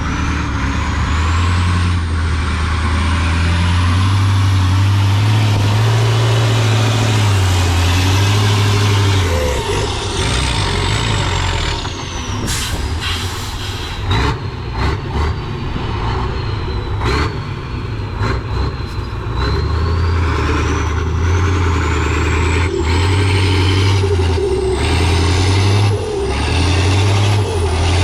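A heavy off-road trials truck's diesel engine working hard, with a thin high whistle that rises and falls in pitch. In the middle stretch the engine drops back and a run of short sharp knocks and hisses comes through.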